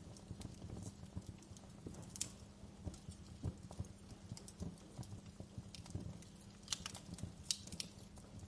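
Wood fire burning in a fireplace, crackling and popping irregularly over a low steady rumble of flames, with a few sharper snaps.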